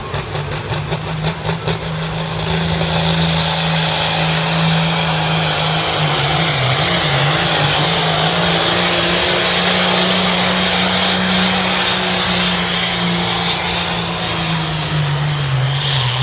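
Ford 9000 pulling tractor's turbocharged diesel engine running flat out under load down the track, its turbo whistle climbing steeply in pitch over the first few seconds, then holding high and steady. The engine stays loud throughout, easing slightly near the end.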